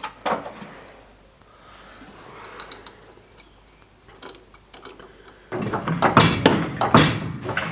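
Clicks, knocks and clatter from hand-fitting a bolt and nut into an engine mount, with a sharp click near the start and a busier run of knocks in the last couple of seconds.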